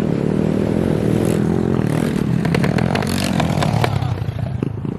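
Pit bike engine running at a fairly steady pitch, with a run of clattering, scraping knocks between about one and four seconds in.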